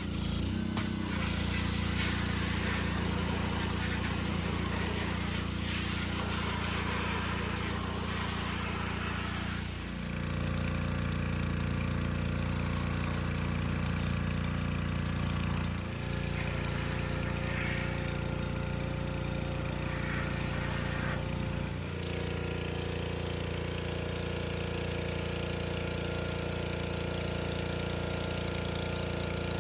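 Pressure washer running steadily while spraying water into a washing machine, a mechanical drone with a hiss of spray over it. Its note dips and shifts three times, about ten, sixteen and twenty-two seconds in.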